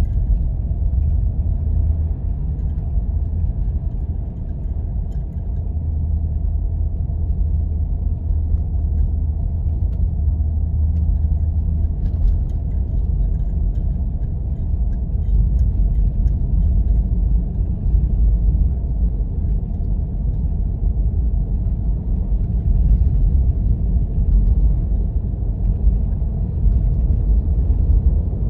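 Steady low rumble of a vehicle driving on snow-covered roads: engine and tyre noise.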